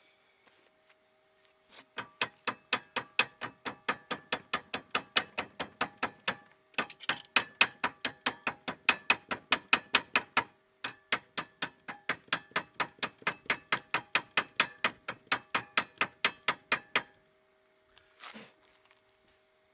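Ratcheting hand tool clicking steadily at about four sharp metallic clicks a second, in three long runs with brief pauses between them.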